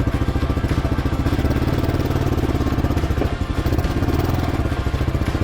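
Motorcycle engine running at low speed with a fast, steady firing beat as the bike is ridden slowly along a tight trail.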